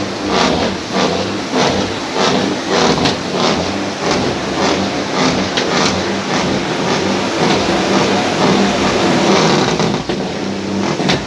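Heavy truck engines running and revving, with a steady low drone and irregular sharp knocks and clatter.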